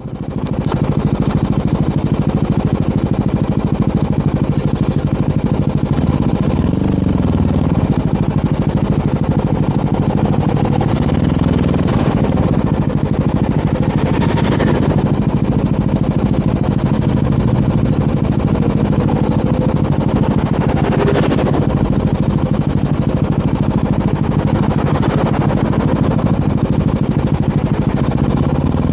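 Motorcycle engine and exhaust running steadily with a rapid, even pulsing, coming in abruptly at the start.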